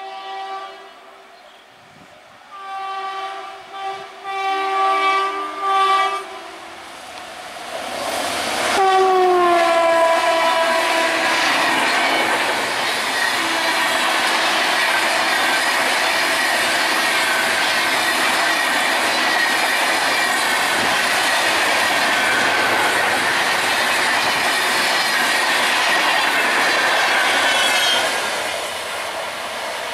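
WAP7 electric locomotive's horn sounding several blasts as the train approaches at high speed, then its pitch falls as the locomotive passes about 9 s in. The express coaches then run past with a steady loud rush and wheel clatter, which drops near the end as the last coach goes by.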